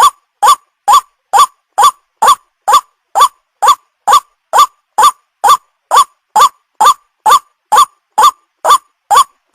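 White-breasted waterhen call played as a bird-trapping lure: a short note that rises and falls, repeated about twice a second in an even loop with silence between notes. The lure is meant to attract young waterhens.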